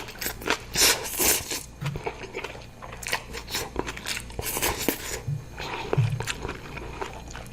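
Close-miked chewing and crunching of food in the mouth, a dense run of irregular crisp crunches.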